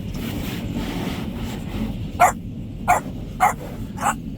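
A dog barking in four short, sharp barks about half a second apart, starting about two seconds in, over a steady low rumble with a faint hiss in the first second or so.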